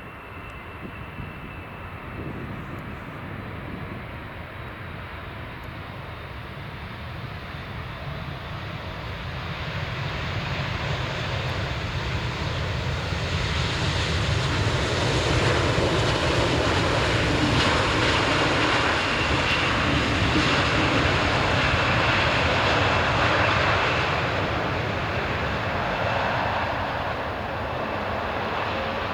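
Jet engines of a Boeing 777-300ER (GE90-115B turbofans) passing close, a rushing roar that builds over about fifteen seconds to a peak and then eases off. A faint high whine is heard near the start.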